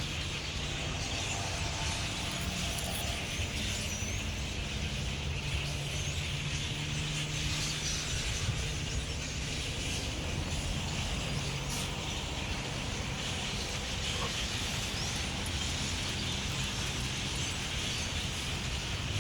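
Dense, continuous chatter of a large flock of blackbirds calling together, over a steady low hum.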